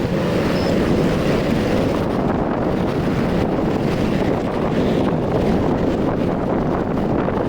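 Steady rush of wind on the microphone of a Rusi RFI 175 motorcycle under way, with the bike's running noise underneath.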